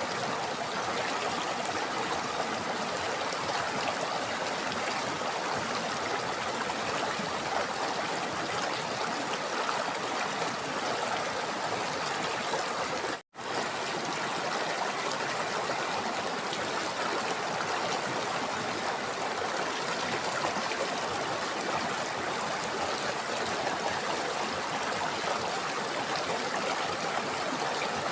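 River water flowing steadily over rocks, an even rushing with some trickling. It cuts out for a split second about halfway through.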